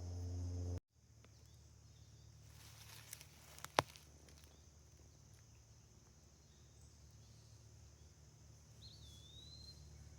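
Background music cuts off abruptly under a second in, leaving faint woodland ambience with a steady high drone. Two sharp clicks about three and four seconds in, the second the loudest, and a short gliding chirp near the end.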